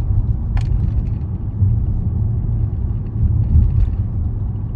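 Steady low rumble of a car's engine and tyres on the road, heard inside the cabin while driving, with a short click about half a second in.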